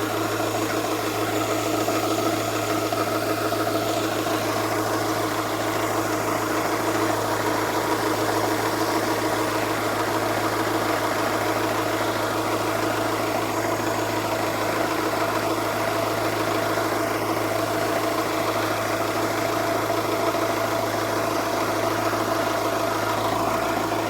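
Car engine idling steadily after a repair, running fine.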